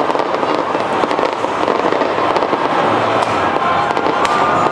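Fireworks display going off in a rapid run of sharp pops and crackles, over the continuous din of a large crowd.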